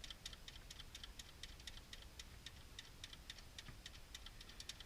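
Faint rapid clicking of a hand ratchet wrench being swung back and forth, several clicks a second, as nuts are run down.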